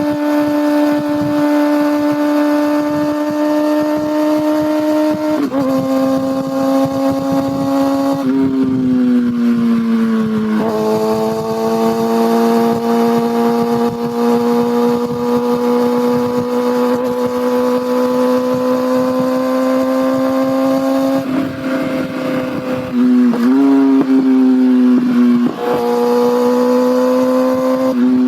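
Kawasaki ZX6R's inline-four engine and exhaust running under way, holding a steady pitch that drops at gear changes about five and eight seconds in. It slows down, then climbs gradually, and near the end there are several quick rises and falls in pitch from shifts and throttle blips.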